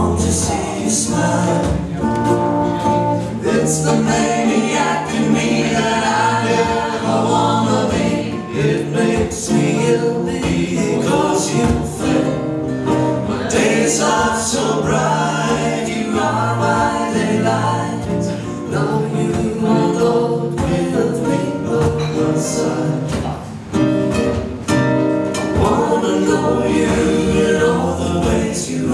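Live acoustic band music: two acoustic guitars and a ukulele strumming while several voices sing together.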